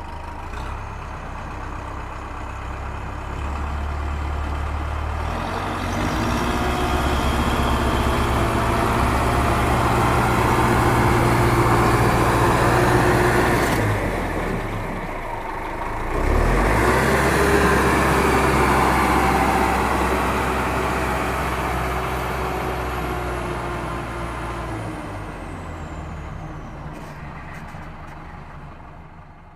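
A heavy vehicle engine running, a tractor or truck: it builds up gradually, drops away briefly about halfway, comes back, then fades out near the end.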